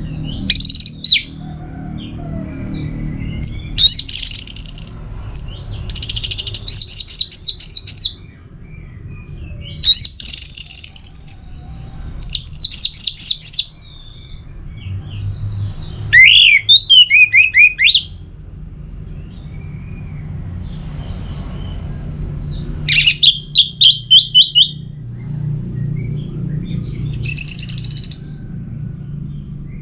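Orange-headed thrush singing: loud phrases of quick, repeated high notes, a phrase every couple of seconds, over a low steady hum.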